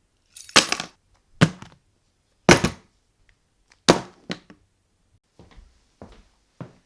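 A run of sharp knocks and thuds, five loud ones in the first four seconds, then fainter ones about every half second.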